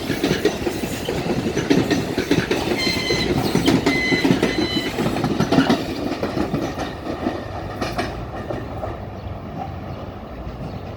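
NJ Transit train rolling past on the rails, wheels clacking over rail joints, with short high wheel squeals a few seconds in; the sound then fades as the train moves away.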